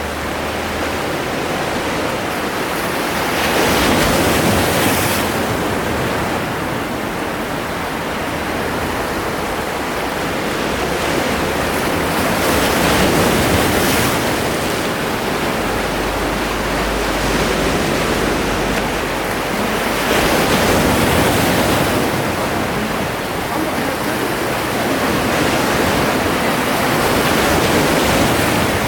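Sea waves washing onto the shore, the surf swelling and falling back in slow surges about every eight seconds.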